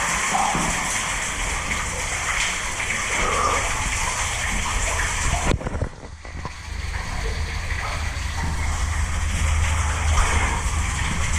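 Water running and splashing in a stormwater drain tunnel, a steady rushing hiss that drops away briefly just past halfway and then comes back with more low rumble.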